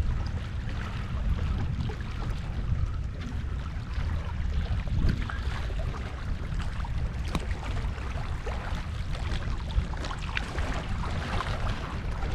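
Wind buffeting the microphone in an uneven low rumble over a steady wash of sea waves, with scattered small ticks.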